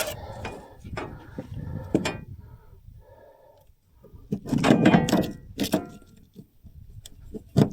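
Handling noise: scattered knocks and clicks, with a loud scuffling clatter about four to six seconds in and a sharp knock near the end.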